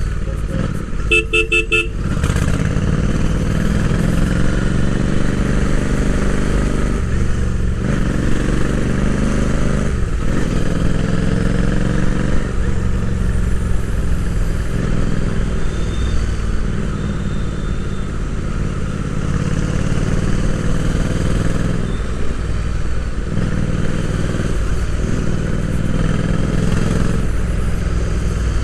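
Royal Enfield Interceptor 650's parallel-twin engine and exhaust running under way, rising in pitch several times as it accelerates through the gears. A horn toots in a quick series of short beeps about a second in.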